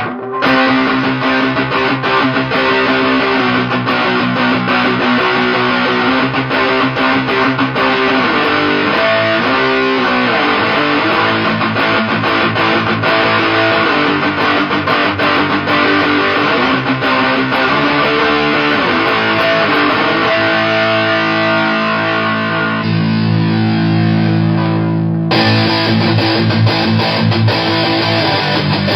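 Electric guitar riffing through a 77 Fuzz Blender fuzz pedal pushed by a Shroot drive pedal, played into a solid-state amp with a thick, distorted tone. The tone changes about 23 seconds in and brightens again about two seconds later.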